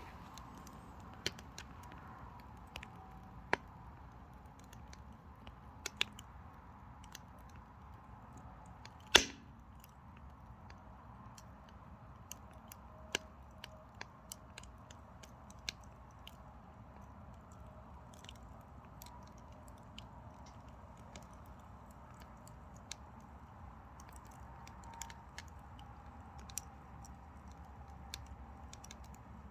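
Mini pine firewood burning in a small wood stove, crackling with scattered snaps and one loud pop about nine seconds in.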